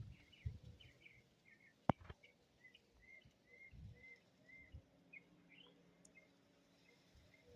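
Birds chirping faintly: scattered short chirps, then a run of evenly spaced chirps at about two a second. A single sharp click about two seconds in.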